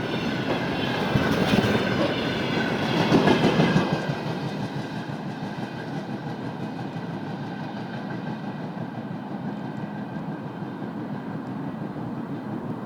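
Freight train wagons rolling past, their wheels clicking over the rail joints. It is loud for the first four seconds, then drops to a steadier, quieter rumble that fades as the train moves away.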